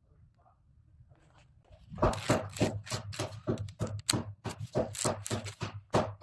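A quick, irregular series of sharp clicks and knocks, starting about two seconds in, over a faint low hum.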